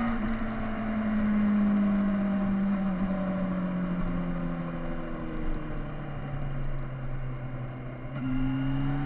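Kawasaki Z1000 motorcycle's inline-four engine on the move, its note falling slowly as the bike slows. About eight seconds in the pitch steps up and starts rising again as the engine picks up. A steady rush of noise lies underneath.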